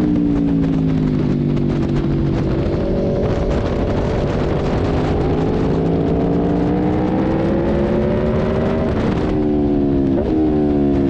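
Sport motorcycle engine on track, heard onboard over heavy wind noise: the engine note falls at first, then climbs steadily for several seconds under acceleration before dropping sharply near the end as the throttle is closed.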